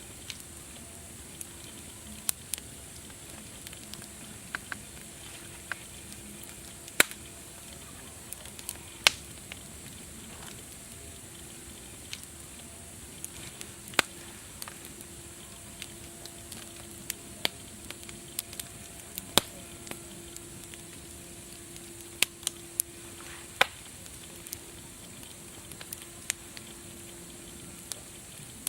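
Wood fire crackling: sharp pops and snaps at irregular intervals over a steady hiss.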